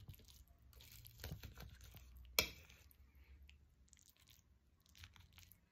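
Faint eating sounds of a person tasting a freshly made omelette: soft chewing and mouth noises with scattered small clicks, and one sharp click about two and a half seconds in.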